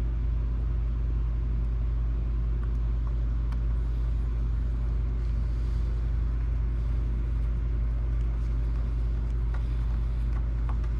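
A steady low hum with no change in level, and a few faint small clicks over it.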